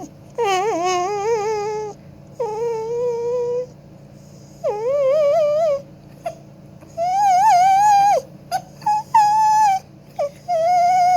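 Dog howling in long, wavering notes, about six of them, each around a second long with short breaks between, the pitch sliding up and down like singing.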